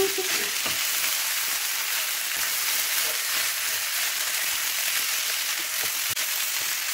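Fried rice sizzling steadily in a hot wok as it is stirred and turned over with a spatula.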